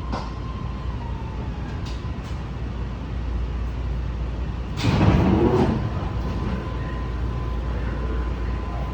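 BART Legacy train car running as it pulls into a station: a steady low rumble with a thin steady tone above it. About five seconds in, a louder rushing burst lasts about a second.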